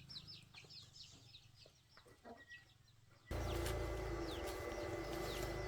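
Birds chirping in quick, short falling calls, repeated several times a second. About three seconds in, a steady low hum with a faint thin whine comes in suddenly and the chirping goes on over it.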